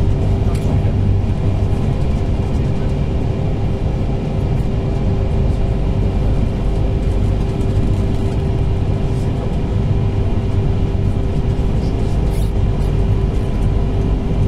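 Cabin noise of a moving TER passenger train: a steady rumble of the wheels on the track with a constant hum running through it.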